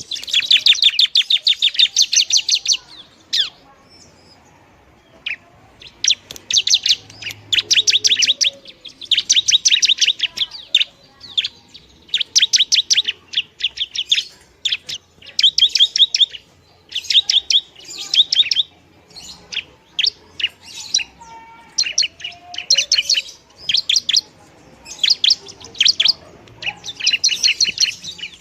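Long-tailed shrike (pentet) singing: bouts of rapid, sharp chattering notes, each bout a second or two long, repeated over and over with short pauses.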